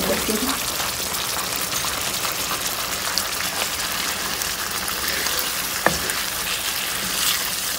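Fried masala sizzling in a nonstick pan as canned kidney beans are tipped in and worked with a wooden spatula: a steady frying hiss, with one sharp knock about six seconds in.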